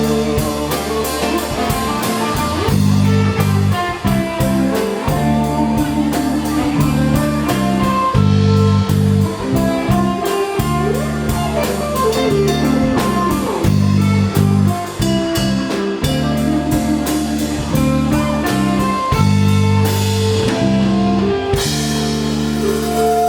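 Band playing blues-rock: guitar over a steady drum-kit beat and a bass line.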